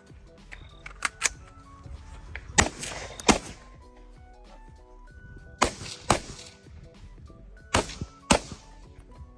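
Gunshots fired during a run of a shooting drill: about eight sharp shots, mostly in pairs, each with a short echo tail. Background music plays underneath.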